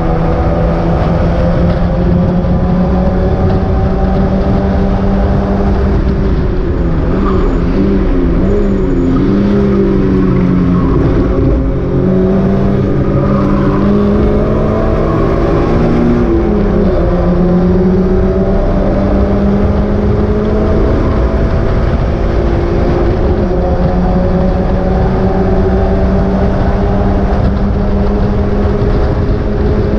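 Mazda MX-5 race car's four-cylinder engine running hard at high revs. About six seconds in, the pitch drops and wavers through a run of lower revs, as when braking and shifting down. The pitch then climbs back up and holds steady at high revs.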